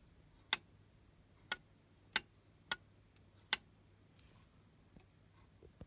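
Five sharp clicks at uneven intervals in the first few seconds, then a fainter one.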